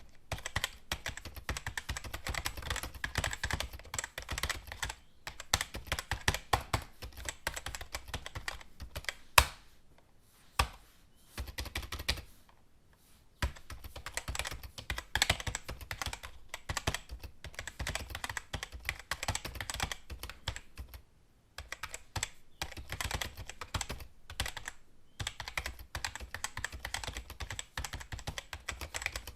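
Computer keyboard typing: fast runs of key clicks broken by short pauses, with a few harder single keystrokes about nine and ten and a half seconds in.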